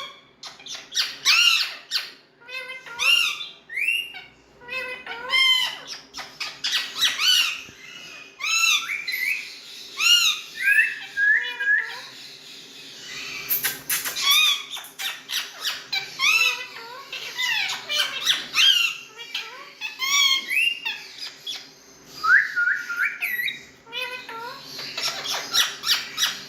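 Indian ringneck parakeets calling in a dense run of short squawks and chirps, many of them sweeping sharply up and down in pitch, with a faint steady hum underneath.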